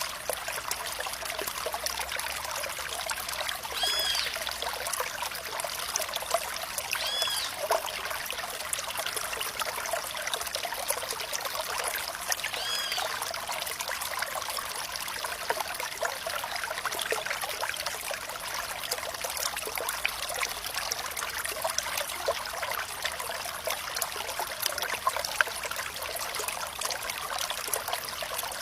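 Flowing water trickling and babbling steadily, mostly a bright hiss with little low rumble. Three short, high chirping calls sound in the first half.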